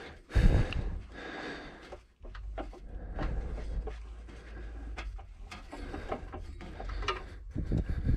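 Hand-work on a Trabant engine's cooling-fan area: scattered clicks and knocks of metal parts being handled, with some rubbing, and a louder cluster of knocks about half a second in. A low steady hum lies underneath from about two seconds in.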